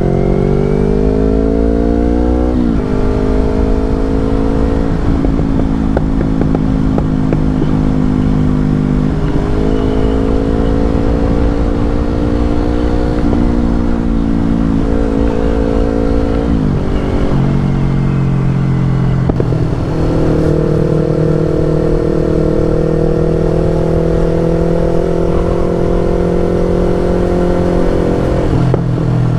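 Yamaha R25's parallel-twin engine running through an aftermarket Brave exhaust under way. The engine note climbs steadily, then drops sharply at each gear change, several times over.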